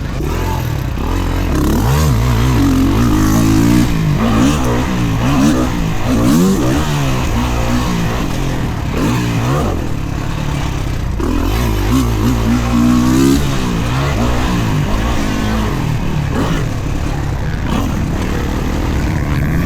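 Kawasaki KX450 dirt bike engine being ridden hard, revving up and dropping back over and over as the throttle is worked and gears are shifted.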